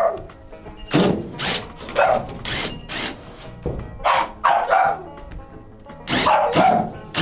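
A dog barking repeatedly in short bursts, with a pause a little past the middle, over background music.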